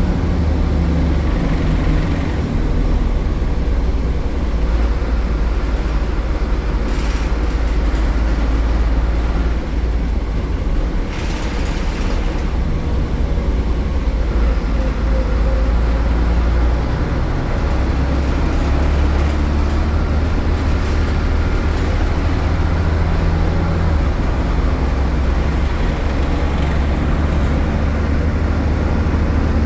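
Diesel engine of a MAN A76 Lion's City city bus with a ZF gearbox running under way, a loud low drone that changes pitch a few times. A short hiss about eleven seconds in.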